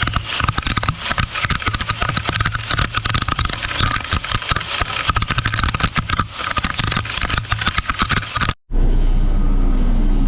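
Dump truck running down a rough dirt road while spreading rock from its tailgate: a low engine drone under dense, continuous rattling and clatter. About eight and a half seconds in, the sound cuts off abruptly to a steady low engine idle.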